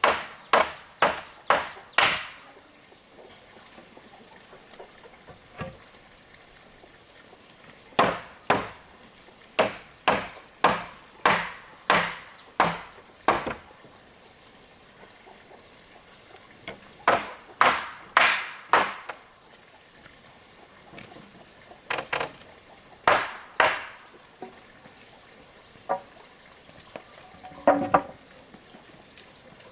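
A hand tool striking wood in runs of several heavy blows, about two a second, with pauses of a few seconds between the runs.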